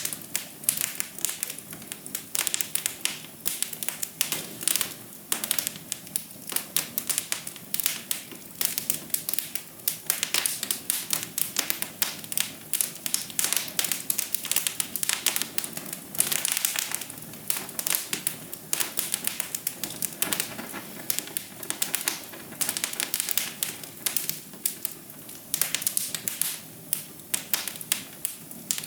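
Wood fire in a fireplace crackling, with dense, irregular snaps and pops over a soft steady hiss.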